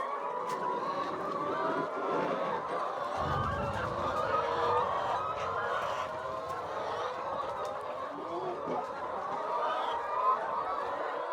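A flock of chickens clucking and calling together, many overlapping calls in a steady chorus.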